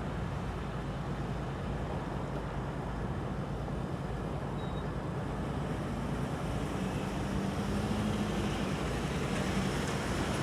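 Diesel locomotive of a CSX train running: a steady low rumble with an engine hum that grows a little louder toward the end.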